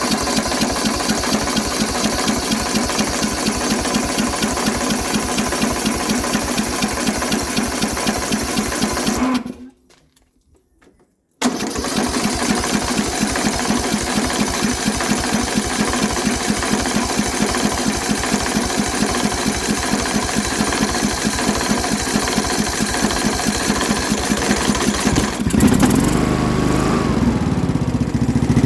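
Riding lawn mower engine firing on its first start in a long while, running at a steady idle with an even firing beat and no surging. It drops to near silence for about two seconds near the middle, runs again, and grows louder and heavier a few seconds before the end.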